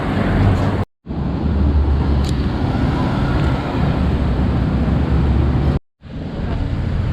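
Road traffic noise: vehicles running past with a steady low rumble, cut twice by short dead-silent gaps.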